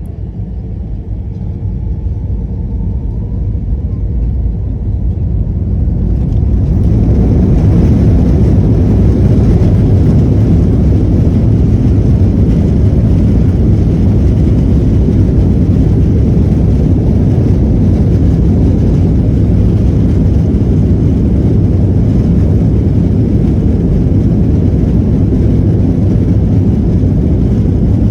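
Airbus A321 jet engines spooling up to take-off thrust: the rumble builds over the first seven seconds or so, then holds steady and loud.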